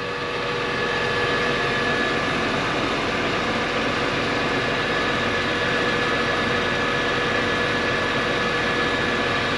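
Steady running noise of a farm tractor heard from inside its cab: engine hum and cab fan rush, even throughout, with a couple of faint constant whining tones.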